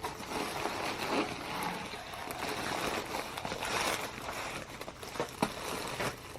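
Rustling of a mailing package and its contents being handled and unpacked, with a few sharp crackles.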